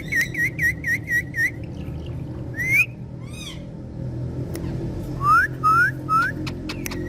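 Pet parrot whistling: a quick run of about six short chirps, then rising whistles, with three rising whistles in a row about five seconds in. Sharp clicks sound in between.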